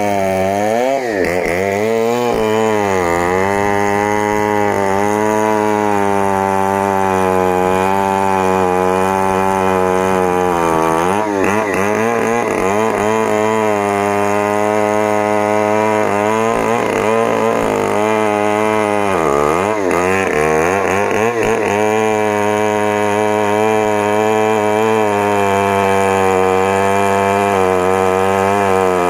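Stihl MS 070 two-stroke chainsaw running near full throttle while cutting a sengon log. Its pitch sags and recovers several times as the chain bites into the wood under load.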